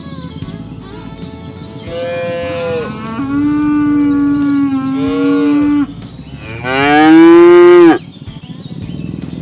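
Cattle mooing: a long low moo starting about two seconds in and lasting nearly four seconds, with a second animal's call overlapping near its end, then a louder, shorter moo rising in pitch near the end.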